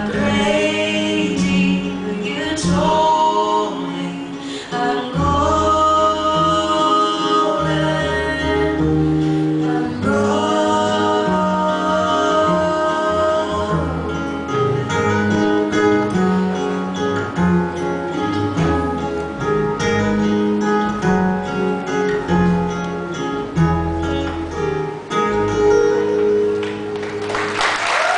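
Live acoustic guitar with singing, the closing bars of a song. Audience applause breaks out right at the end.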